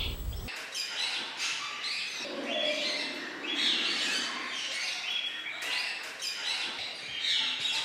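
A large flock of parrots calling together, a dense chorus of overlapping squawks and chirps. A heavy low rumble cuts off about half a second in.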